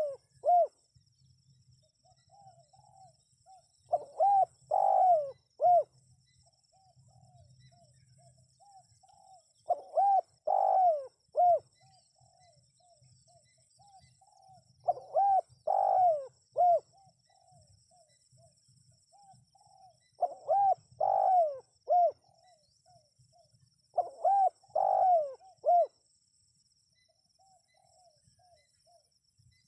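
Spotted dove cooing: five loud phrases of several throaty coos, one about every five seconds, with fainter single coos in the gaps between them.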